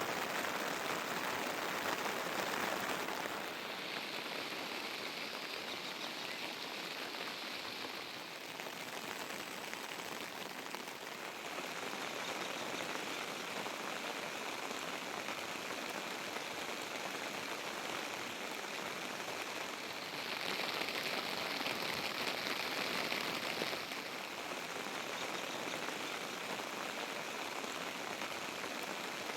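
Steady rain falling, an even hiss that swells a little louder for a few seconds twice.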